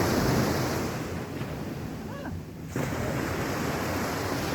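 Sea waves washing onto the beach, with wind rushing over the microphone. The noise eases for a moment about two seconds in, then comes back suddenly.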